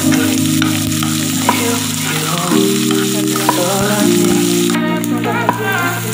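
Chopped onions sizzling as they fry in oil in a nonstick pan, with a wooden spatula stirring and scraping and scattered clicks against the pan. Soft background music with held low chords plays underneath.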